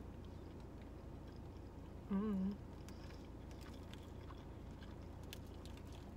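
A person chewing a mouthful of bagel with cream cheese, mouth closed, with faint soft clicks of chewing over a steady low hum. About two seconds in there is a short hummed voice sound.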